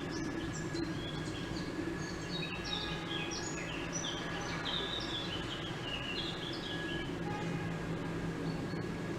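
Small birds chirping and twittering in a rapid flurry of short, high, falling notes, busiest in the middle, over a steady low outdoor background hum.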